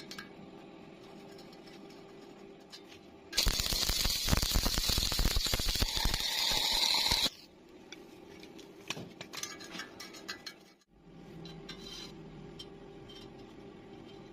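Welding arc crackling for about four seconds, starting a few seconds in and cutting off suddenly, with light metal clinks before and after.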